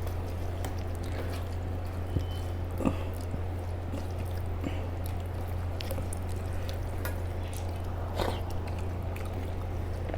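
Scattered small wet clicks and smacks of eating rice mixed with sour lentil dal, over a steady low hum from an air conditioner.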